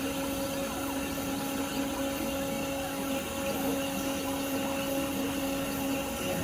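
Portable CNC carving machine running, its spindle motor giving a steady whine over cutting noise. The whine falters briefly about three seconds in.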